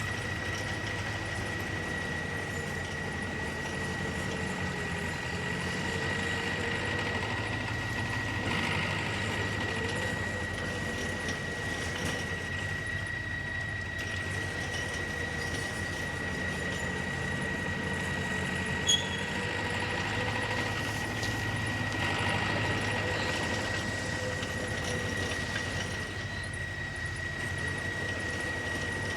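Heavy earthmoving machine's engine running steadily under a constant high whine, with one sharp knock about two-thirds of the way through.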